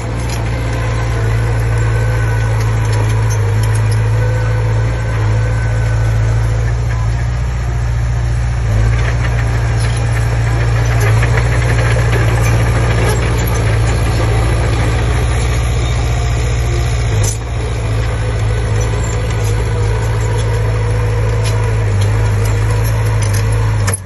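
Diesel engine of a Komatsu D20P bulldozer running steadily, with a brief dip in level about seventeen seconds in.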